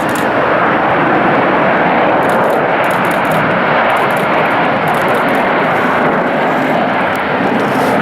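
Jet airliner's engines, a loud steady noise at close range.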